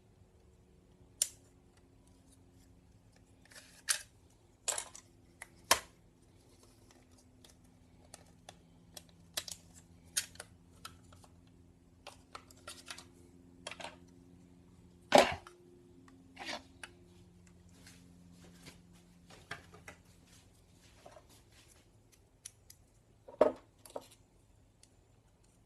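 Irregular sharp clicks and knocks of hard plastic cup-holder parts and small hand tools being worked and handled, two of them louder near the middle and near the end, over a faint steady hum.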